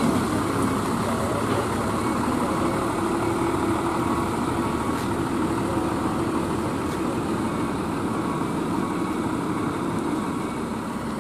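Vehicle engine running steadily with road noise, easing off slightly near the end.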